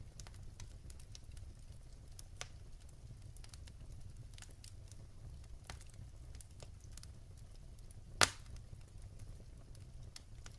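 Firewood burning in a fireplace: a low steady rumble with scattered small crackles, and one loud pop a little after eight seconds in.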